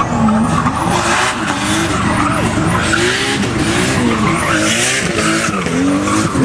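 Car engine revving hard, its pitch rising and falling again and again, with tyres squealing as the car drifts.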